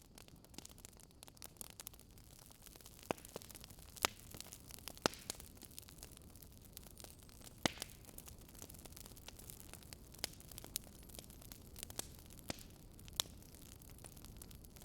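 Crackling wood fire: a soft steady hiss with irregular sharp pops, one every second or two.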